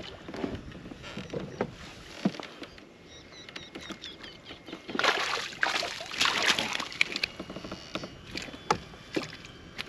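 Knocks, clicks and rustling around a kayak as a small bass is landed and handled, with a louder noisy rush lasting about two seconds, about halfway through.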